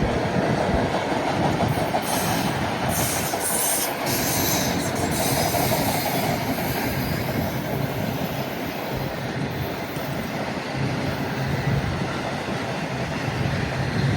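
Long freight train rolling past slowly, its wheels clacking over the rail joints. The wheels squeal on the rail for a few seconds about two seconds in.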